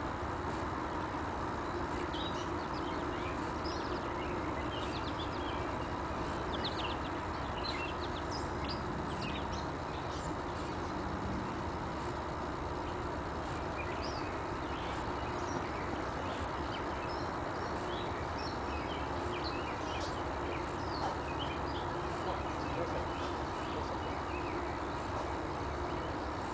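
Songbirds chirping in short, scattered calls over steady outdoor background noise.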